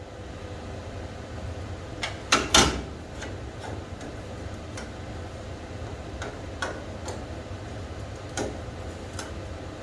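Scattered sharp clicks and knocks of hand tools and loose parts being handled, the loudest a quick cluster about two and a half seconds in, over a steady low hum.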